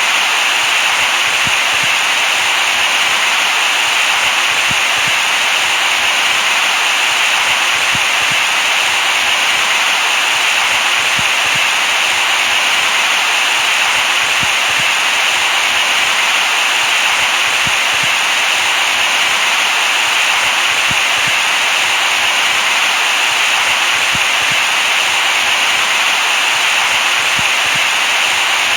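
Steady white noise: a constant, even hiss, brightest in the upper-middle range with little bass.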